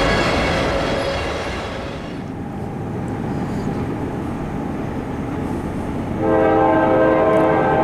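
Diesel locomotive air horn: one blast fades out in the first two seconds, the passing freight train rumbles on rails, then the horn sounds again, loud and steady, just after six seconds in.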